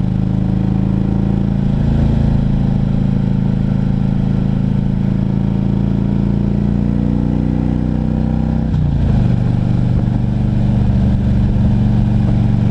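Harley-Davidson Ultra Classic Electra Glide's air-cooled V-twin engine pulling steadily at cruising speed under wind rush, its pitch slowly rising. About nine seconds in the pitch drops suddenly, as with an upshift, then climbs again.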